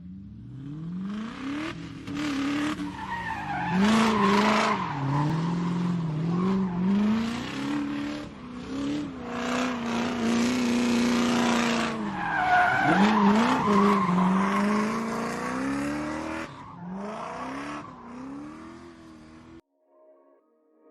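Car engine revving up and down over and over, with tyres squealing as in a drift. It stops suddenly near the end.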